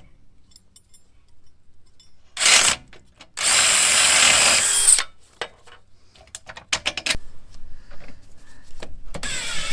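Cordless power tool (drill/impact driver type) run on the rear strut fasteners in bursts: a short one about two and a half seconds in, then a steadier one lasting about a second and a half. A run of sharp clicks and knocks follows, and another burst of the tool starts near the end.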